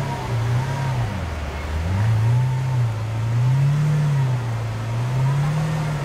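Lamborghini Aventador's V12 engine running at low revs while the car creeps into a parking spot, the engine note slowly rising and falling with light throttle, dipping lowest about a second in.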